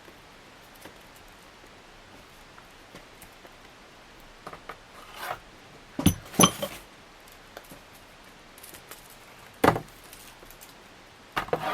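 Ceiling fan lead wires and parts being handled: scattered faint rustles and clicks, a louder rattling clatter around five to six and a half seconds in, and a single sharp knock near ten seconds.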